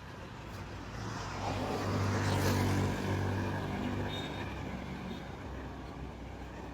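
A car drives past, its engine and road noise swelling to a peak about two and a half seconds in and then fading away.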